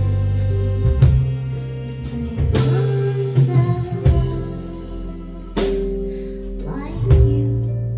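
Live band music with singing over guitar, bass and sustained chords, played on stage.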